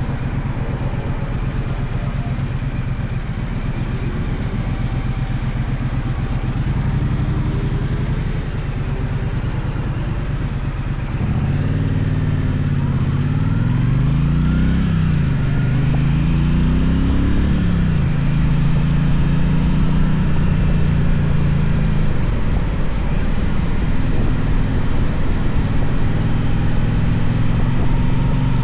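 Gaokin GK1200 motorcycle engine running on the move, over steady wind and road noise. About eleven seconds in it gets louder and its pitch rises and drops twice as it accelerates through the gears, then settles into a steady cruise.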